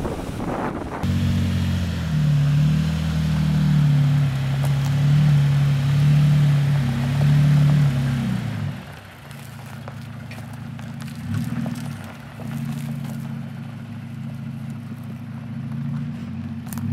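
Off-road vehicle's engine running while driving, a steady low hum. It is louder for the first eight seconds or so, then drops to a quieter level.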